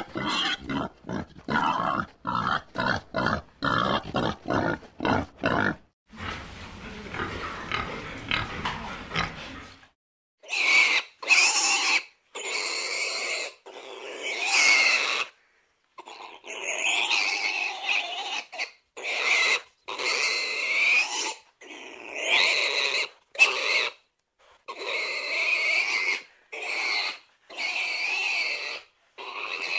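Domestic pigs calling: first a quick run of short grunts, about two a second, then after a few seconds of noise a series of high-pitched squeals, each about a second long with short breaks between.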